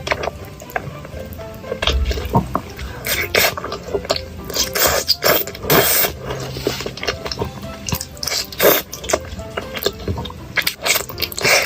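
Close-miked eating sounds, a run of sharp bites, crunches and wet mouth clicks, over light background music.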